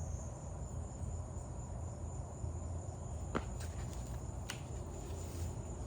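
Crickets chirping in a steady high trill over a low background rumble, with a couple of short clicks around the middle.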